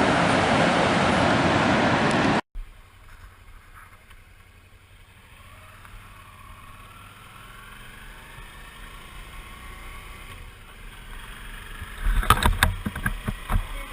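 Loud, steady rushing of wind and road noise from a moving motorcycle, which cuts off abruptly a couple of seconds in. A much quieter stretch with a low hum follows, broken by a few sharp knocks near the end.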